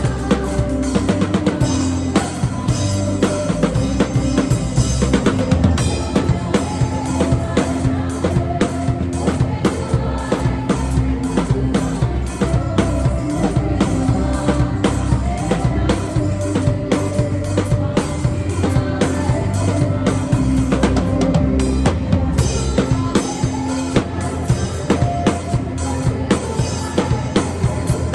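Drum kit played at a steady, fast beat with kick, snare and cymbals, over sustained notes from the accompanying worship music, recorded on a phone's microphone.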